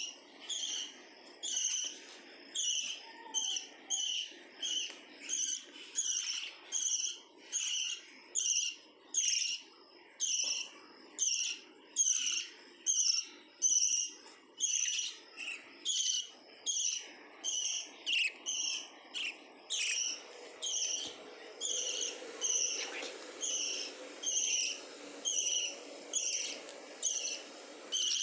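Pet lovebird calling over and over: a steady run of short, shrill chirps, about three every two seconds.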